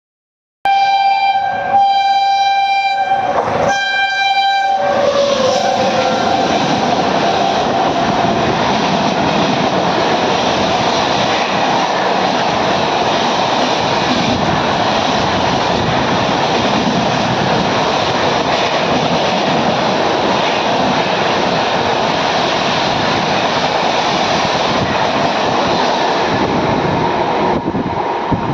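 Train horn sounding in three blasts, its pitch falling as the train goes by, followed by the steady loud rolling and rattle of the train's coaches passing on the rails.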